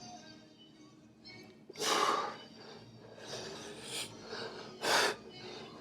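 Heavy breathing of a man straining through a set of triceps dips: sharp, forceful breaths, the two loudest about two seconds in and near the end.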